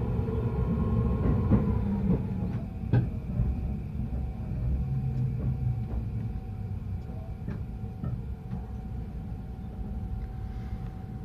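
Electric commuter train heard from inside, braking into a station: the motor whine falls in pitch and the clicks of the wheels over rail joints thin out as the train slows. A low rumble and a steady hum remain as it comes almost to a stop.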